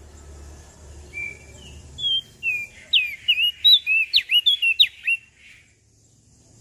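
Crested white-eye (opior jambul) singing: a few scattered whistled notes, then a fast run of about a dozen short notes that slur sharply up and down. The song stops suddenly about five seconds in.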